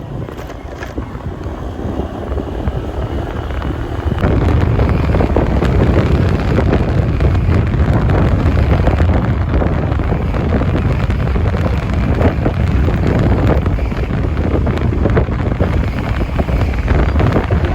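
Wind rushing over the microphone with a dense low rumble, building up and then holding steady from about four seconds in.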